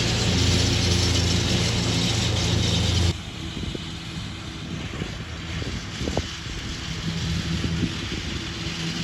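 Old Ford tractor engine running steadily. About three seconds in, it cuts off abruptly to a quieter stretch with a fainter engine hum and a few light clicks.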